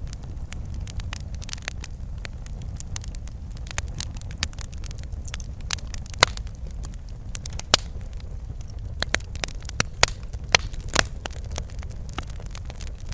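Fireplace fire crackling and popping over a steady low rumble of flames. Sharp pops come at irregular moments, with a few louder ones in the second half.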